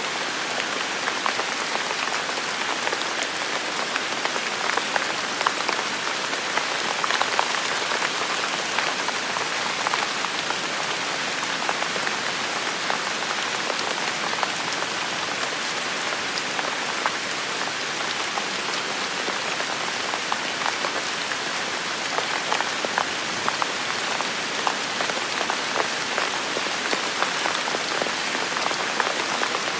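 Heavy rain falling steadily in a forest: a dense, even hiss with countless individual drops pattering on leaves and surfaces.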